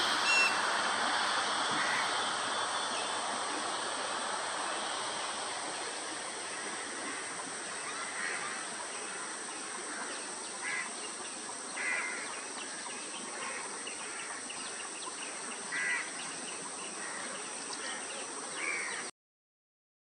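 Outdoor ambience: a broad rushing noise fades down over the first few seconds under a faint steady high hiss. Then a wild bird gives about five short calls a few seconds apart. The sound cuts off suddenly about a second before the end.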